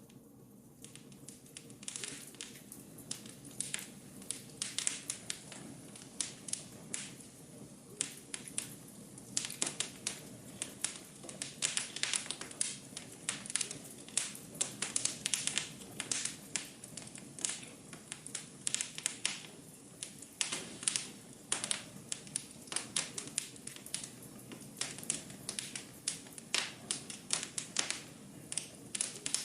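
Wood fire in a fireplace crackling and popping: many sharp irregular pops over a low steady rumble of flames, sparser in the first two seconds, then frequent.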